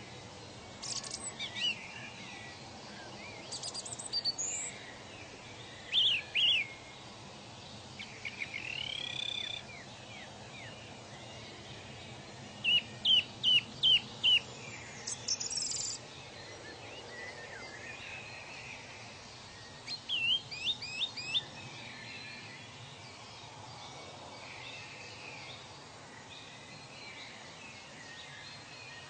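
Wild birds singing in short bursts of quick repeated chirps and rising whistles every few seconds, over a steady faint hiss of outdoor ambience. The song stops about two-thirds of the way through, leaving only the hiss.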